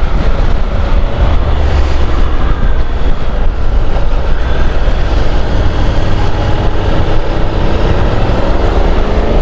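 Wind rushing and buffeting over a helmet-mounted microphone on a moving motorcycle, with the bike's engine running underneath. The engine note rises a little near the end as it pulls harder.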